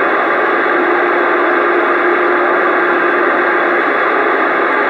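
CB radio hissing with static on an open channel between transmissions. A steady low hum tone sounds over the hiss for about three seconds in the middle.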